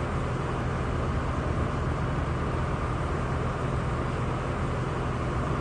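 Steady vehicle noise: a constant low hum under an even hiss, holding the same level throughout.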